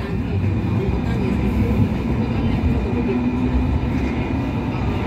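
Hong Kong Light Rail first-generation (Phase I) car running along the track, a steady rumble of wheels on rail and running gear heard from inside the car, with a faint steady motor tone midway.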